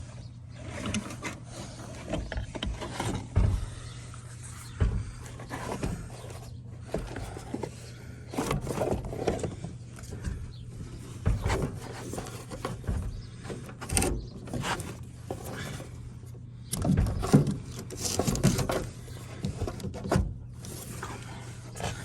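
Irregular knocks, clatter and rubbing from hand work with tools, tightening a part that is being fitted, over a steady low hum. The loudest knocks come about a third of the way in and just after three-quarters through.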